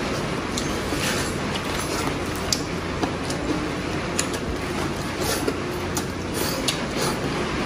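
Heavy rain pouring down, a steady dense hiss, with a few faint sharp clicks on top.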